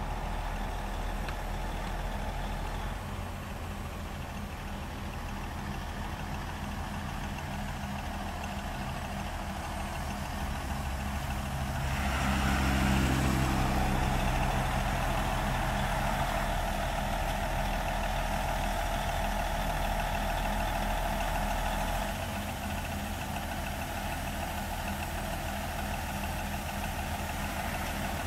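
Diesel engines of asphalt paving machinery running steadily. They grow louder about twelve seconds in, and a steady mid-pitched whine joins for several seconds before easing off.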